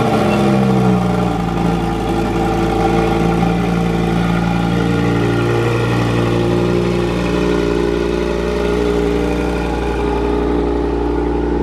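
Lamborghini with an Akrapovič exhaust, just started and idling at a steady, loud idle.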